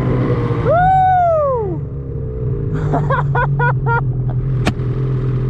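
Snowmobile engine idling with a steady low drone. About a second in comes a loud rising-then-falling whoop, a quick run of short pitched yips follows around three to four seconds, and there is a sharp click near the end.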